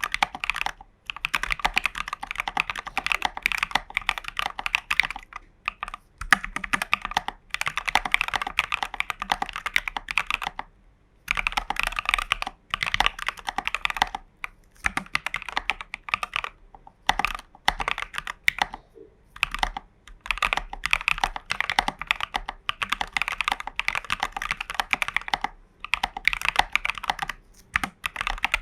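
Typing on a Hades v1.3 custom mechanical keyboard with Prevail Epsilon switches and Geekark BOW keycaps: fast runs of keystrokes in spells of a few seconds, with short pauses between them.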